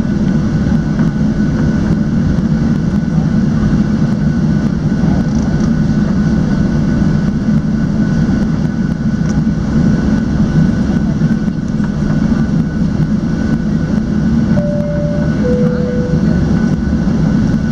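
Steady low rumble inside a Boeing 737-700 cabin on the ground before takeoff, with a two-tone high-low cabin chime about fifteen seconds in.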